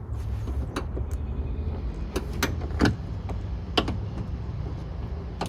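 Screwdriver prying at the door trim panel of a 2010 Hyundai Genesis coupe: a handful of short sharp clicks and knocks of plastic trim and clips, the loudest about three seconds in, over a steady low rumble.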